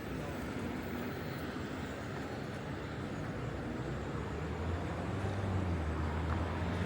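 Steady vehicle and traffic noise, with a low engine hum that swells from about halfway through and grows a little louder toward the end.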